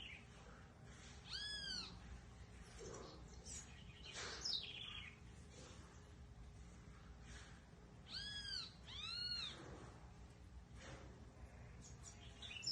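Faint animal calls: three arched calls that rise and fall in pitch, one about a second and a half in and two close together past the middle, with short high chirps between them.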